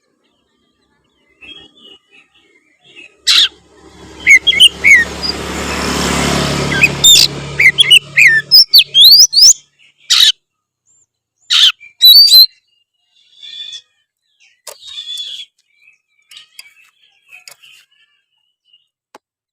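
Oriental magpie-robin (kacer) singing in scattered bursts of loud, sharp whistles and chirps with short pauses, fainter toward the end. In the middle a rushing noise with a low hum swells and fades over about four seconds.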